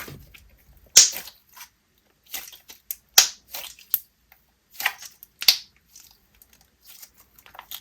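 Thick slime being squeezed and worked by hand, giving irregular sharp bubble pops and crackles, a few loud ones spaced out among softer ones.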